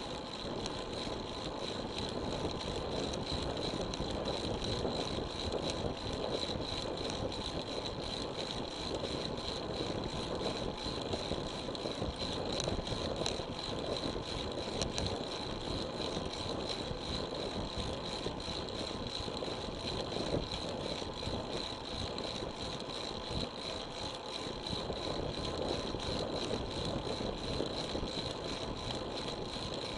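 Road bicycle on the move, heard through an action camera: steady tyre, road and wind noise with light rattling from the bike, and a constant high whine running underneath.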